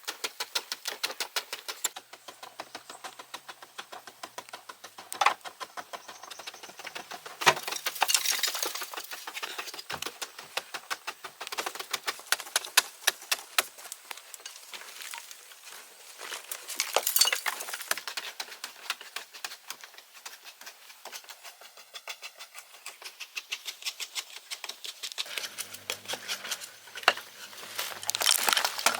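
Rapid, irregular tapping and clinking of hand tools working hard material, with a few louder knocks about five, seven and twenty-seven seconds in.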